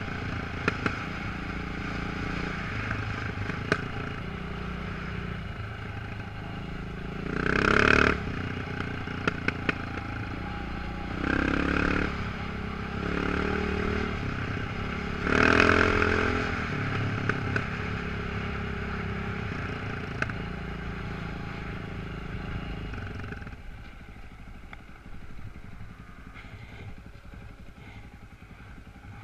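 Motorcycle engine running steadily, with three louder surges of revving about eight, twelve and sixteen seconds in, and a few sharp clicks; the engine sound drops quieter near the end.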